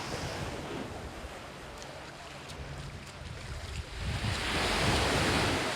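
Surf washing on a sandy beach, with one wave surging in louder about four seconds in. Wind rumbles on the microphone underneath.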